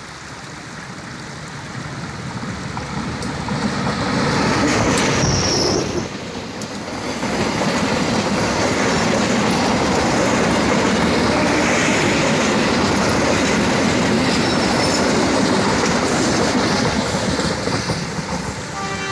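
Diesel-hauled passenger train approaching and passing close by. The locomotive swells in over the first few seconds, with a short high wheel squeal about five seconds in. Then comes a long steady run of coach wheels over the rails, which fades near the end as the last coach goes by.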